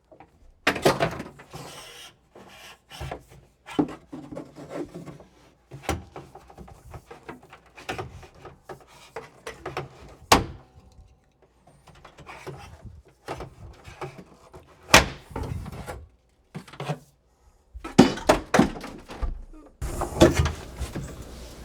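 Irregular knocks, clunks and rattles of old CPVC supply pipe being worked loose in wooden floor framing. There are sharp single knocks about ten and fifteen seconds in, and a quick run of knocks near the end.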